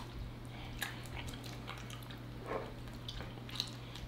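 Close-miked eating sounds of people chewing braised pig feet off the bone with their fingers: soft wet chewing with a few short lip smacks scattered through, over a steady low hum.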